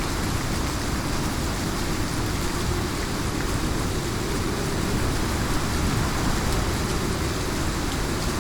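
Heavy rain falling steadily, a dense even downpour with a deep, rumbling low end.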